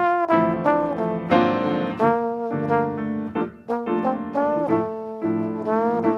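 A slow hymn melody played on a brass instrument, with held notes and some vibrato, over piano accompaniment.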